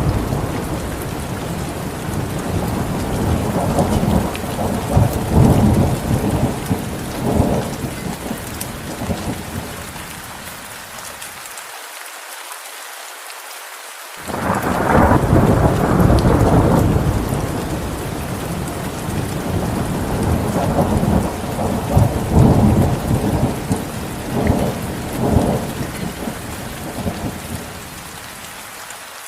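Steady heavy rain with rolling thunder. The rumbling swells and fades away, leaving only the rain hiss for a couple of seconds, then a fresh thunder rumble breaks in suddenly about halfway through and rolls on, fading again near the end.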